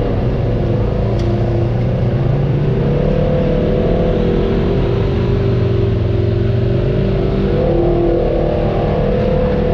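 Off-road vehicle's engine running steadily while crawling a trail, its pitch drifting slowly up and down with the throttle.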